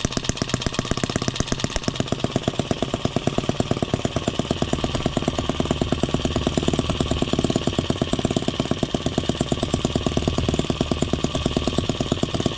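Small M25 sideshaft model gas engine running steadily under its own power, firing in an even train of sharp pops about ten times a second. It runs, but not well, and sounds loud for a little model engine.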